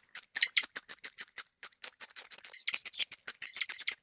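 A rapid run of short, high-pitched chirps and clicks from a small animal, several a second, with louder chirps toward the end.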